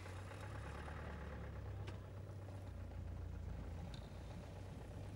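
Vehicle engine running with a steady low hum, heard from inside the cab as the vehicle drives slowly on.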